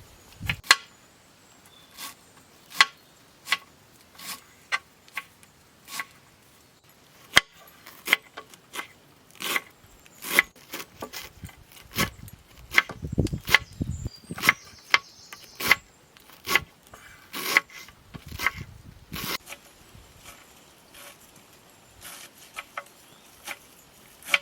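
A long series of sharp, irregular knocks and taps, about one or two a second.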